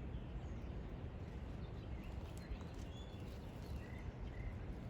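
A few faint, short bird chirps over a steady background rumble.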